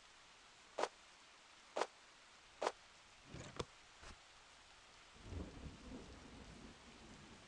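Rain falling steadily, with three short sharp taps about a second apart, then a low, uneven rumble through the last couple of seconds.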